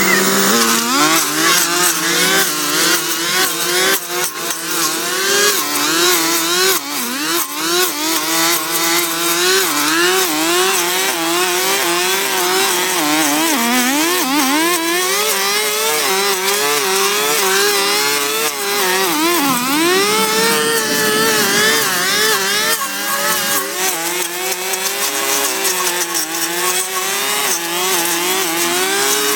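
Small petrol engine of a power tool running at high speed, its pitch wavering up and down constantly and sagging deeply twice.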